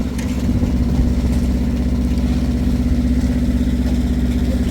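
An engine running steadily at a constant speed, with an even, fast pulse.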